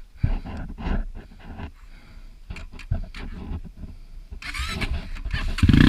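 A run of scattered knocks and scuffs, then a dirt bike engine starts suddenly near the end and runs loud and close.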